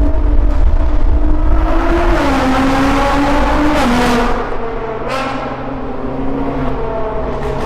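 Nissan GT-R R35's twin-turbo V6 running through a Fannin aftermarket exhaust, pulling hard with its pitch climbing. A little over halfway through the pitch drops and it settles into a lower, quieter drone.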